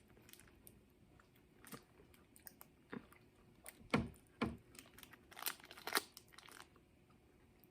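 A person chewing a Snickers almond candy bar, with a few separate, irregular crunches.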